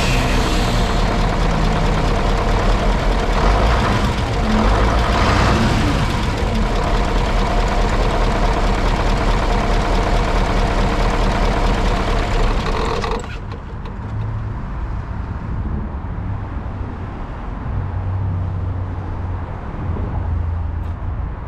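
Mitsubishi Fuso D8AY diesel V8 of a Hyundai Aero Queen coach running at idle, swelling briefly about four to six seconds in. About two-thirds of the way through, the sound turns abruptly duller and quieter, leaving only a low rumble.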